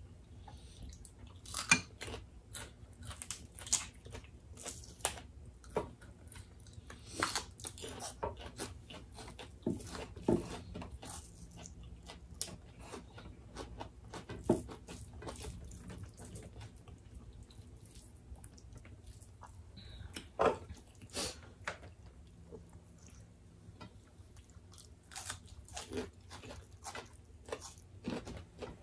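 Close-miked eating sounds: chewing and biting, with many short sharp wet clicks and smacks of mouths and fingers at irregular moments, some louder than the rest.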